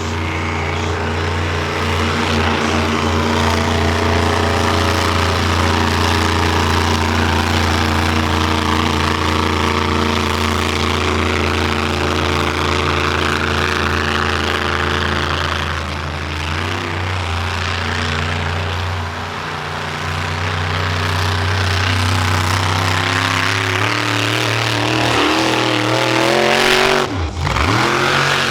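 Monster truck engine running loud at a steady high rev, its note shifting partway through, then climbing before a sudden sharp drop and rise in pitch near the end.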